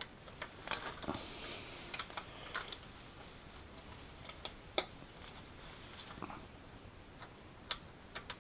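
Metal hand tools clicking and tapping irregularly against engine parts while a small nut is worked loose by hand, with a short stretch of scraping early on. The loudest single knock comes about five seconds in.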